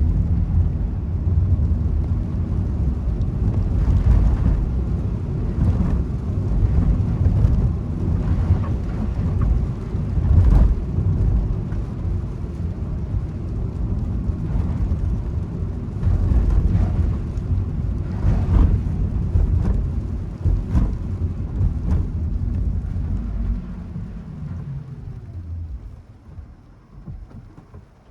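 Car driving in the rain: a loud, low rumble of road and tyre noise with scattered short knocks. It dies down over the last few seconds.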